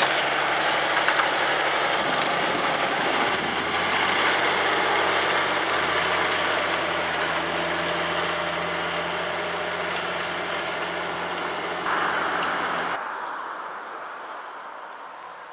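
John Deere 6150R tractor's six-cylinder diesel engine running steadily, its pitch shifting slightly a few seconds in. Near the end the sound drops off abruptly and fades away.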